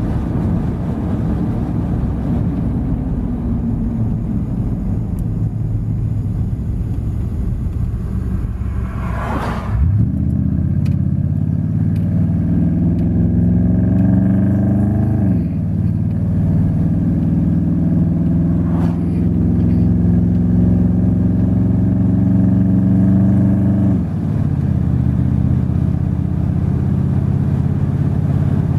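Truck engine running under way with a steady low rumble. About ten seconds in, its pitch starts climbing as it accelerates, then drops sharply a few seconds later as it shifts gear. After that it holds steady, and its pitch falls again near the end as the driver lets off.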